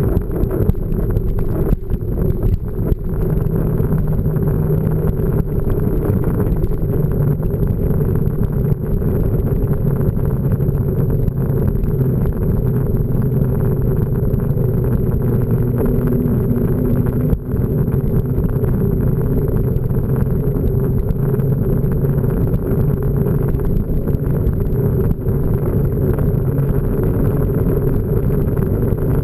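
Steady low rumble of a mountain bike being ridden, with wind buffeting the action camera's microphone and the tyres humming on the trail.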